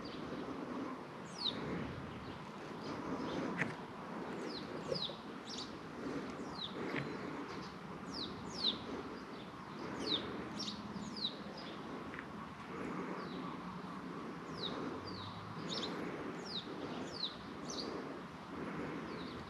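Wild birds calling: many short, high chirps that each sweep downward, coming every second or so, over faint steady background noise.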